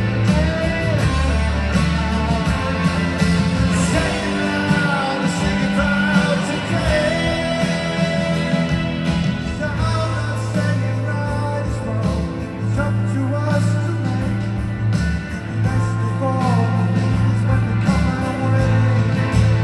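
Live rock band playing a song in an arena, a sung melody over guitar, recorded from the audience.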